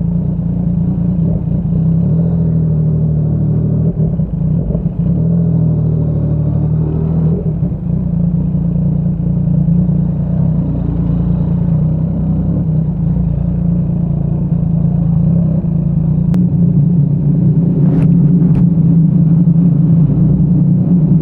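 Yamaha MT-09's inline three-cylinder engine running through a Yoshimura R55 slip-on exhaust while riding, holding fairly steady revs and growing a little louder near the end.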